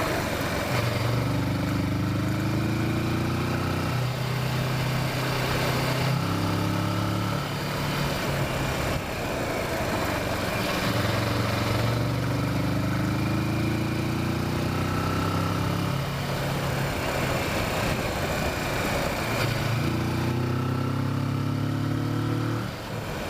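Kawasaki Versys motorcycle engine heard from on board while riding. Its pitch climbs for a few seconds at a time and then falls back, four times or so, over a steady rush of noise.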